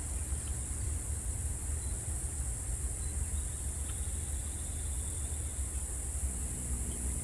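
Steady high-pitched drone of a tropical insect chorus over a continuous low rumble.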